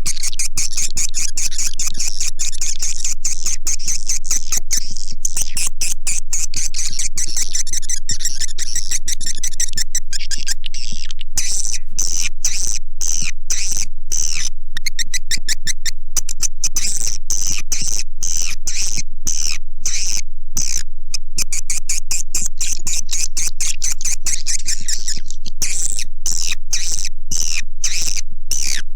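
Swiftlet calls played as a swiftlet-house lure sound: dense, unbroken high-pitched twittering and chirping, with rapid sharp clicks packed closely together.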